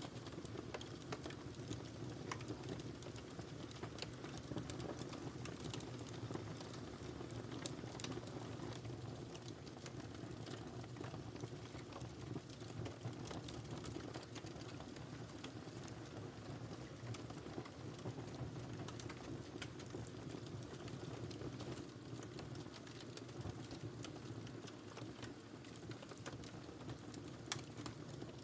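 Wood fire burning in a fireplace: a steady low noise of flames with scattered sharp crackles and pops throughout.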